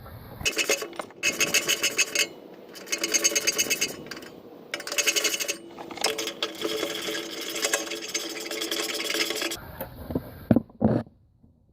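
A mechanic's tool running fasteners on a car, giving rapid rattling in repeated bursts of about a second with a longer run of a few seconds, then a couple of sharp knocks near the end.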